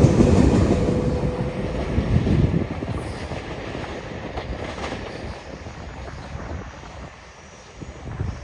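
A train running past on the rails: a loud low rumble for the first two seconds or so, then fading steadily as it moves away.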